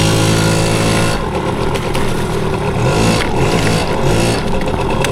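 Yamaha PW80's small two-stroke single-cylinder engine running under a rider, its pitch climbing as the throttle opens and then holding steady, with another rise about three seconds in.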